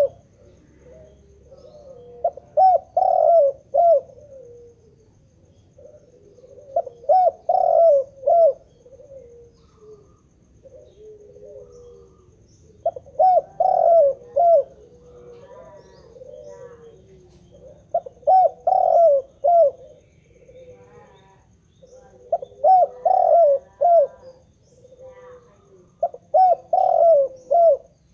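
Spotted dove (tekukur) cooing steadily. It gives a phrase of several short coos about every four to five seconds, six phrases in all.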